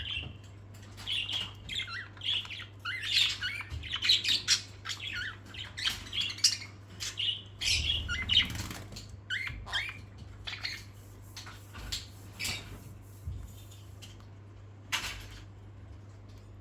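Pet parrots squawking and chirping in quick, short calls with scattered clicks, busy for about ten seconds and then sparser, over a low steady hum.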